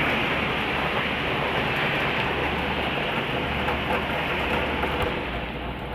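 Steady hiss of rain, with a low, even hum underneath.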